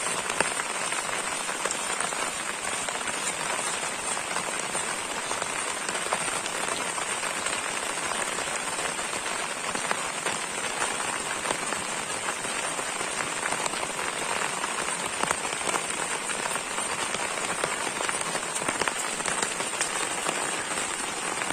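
Steady rain falling, with many small drop impacts ticking through it.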